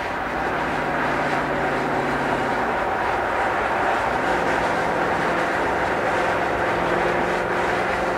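Ford Shelby GT350 Mustang's 5.2-litre flat-plane-crank V8 running under way at fairly steady revs, its note stepping up a little in pitch about three to four seconds in.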